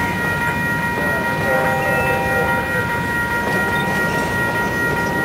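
Freight train cars rolling past at a grade crossing: a steady rumble and rattle of wheels on rail, with a steady high ringing held over it.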